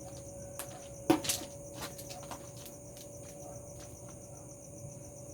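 Crickets chirping steadily, with scattered sharp crackles and pops from a bonfire, the loudest about a second in, over a faint steady hum.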